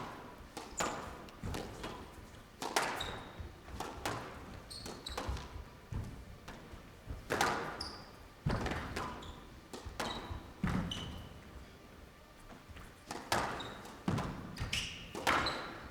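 Squash rally: the ball is struck by rackets and smacks off the court walls every second or so, the impacts echoing in the hall, with brief shoe squeaks on the court floor.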